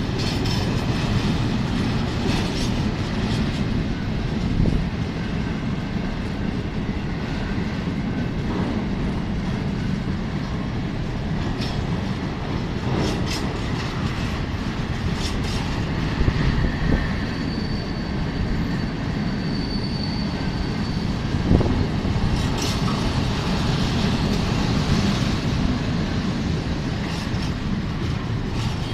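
Freight train of open-top wagons rolling steadily past: a continuous rumble of steel wheels on rail, with clacks as the wheels cross the rail joints. A thin, high wheel squeal sounds for a few seconds about two-thirds of the way through.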